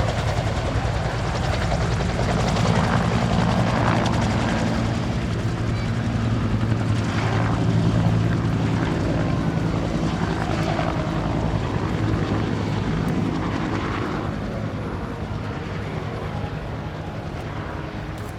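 Bell AH-1S Cobra attack helicopter in flight, its two-bladed main rotor beating steadily; the sound grows fainter over the last few seconds.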